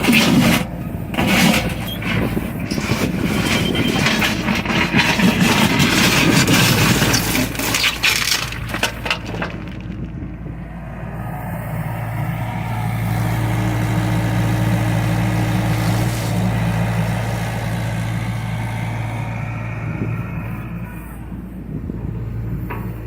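John Deere excavator at work: for about ten seconds a clatter of scraping, knocks and cracking, then its diesel engine running steadily, swelling louder for a few seconds in the middle before easing off.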